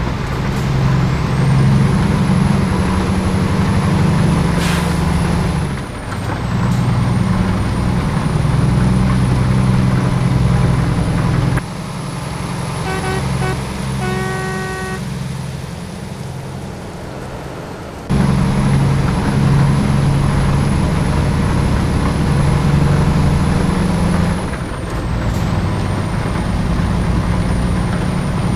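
Scania G-series truck's diesel engine running heavily, with a steady high whine above it. In the middle the engine drops back and a run of short, evenly spaced beeps sounds before the engine comes up loud again.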